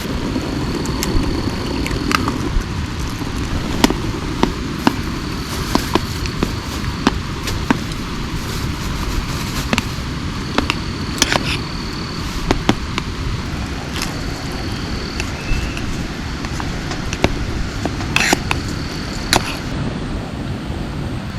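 Steady heavy rain, with drops knocking sharply and irregularly close by. A faint short high note comes back every few seconds.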